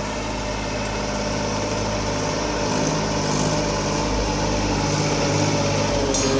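Massey Ferguson 7235 DI tractor's three-cylinder diesel engine running steadily.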